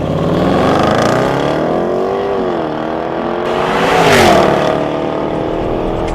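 Range Rover Sport's supercharged 5.0-litre V8 accelerating hard, its engine note climbing in pitch, dipping briefly, then climbing again. It is loudest about four seconds in, where a rush of air noise peaks and the pitch drops sharply to a steady lower note.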